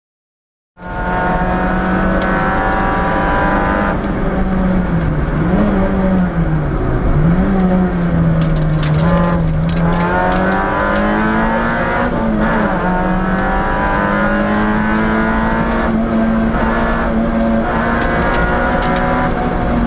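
Peugeot 106 S16 rally car's 1.6-litre four-cylinder engine heard from inside the cabin, held at high revs on a stage. It cuts in suddenly about a second in; the revs dip and recover a few times around six seconds in, then hold steady and high, with scattered sharp ticks.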